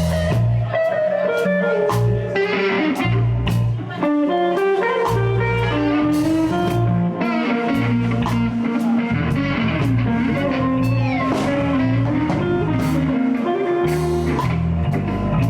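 Live blues band playing an instrumental passage between sung lines: guitar over a walking bass line and drum kit.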